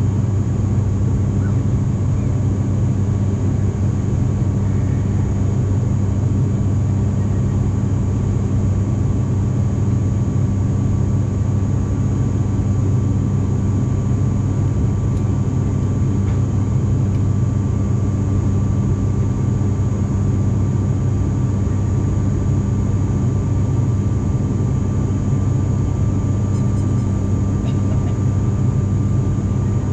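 Cabin drone of an ATR 42-500's Pratt & Whitney PW127 turboprops and propellers in flight: a steady low hum with a thin, even whine above it.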